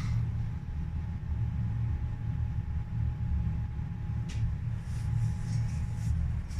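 A steady low rumble with a faint steady hum above it, and a brief hiss about four seconds in.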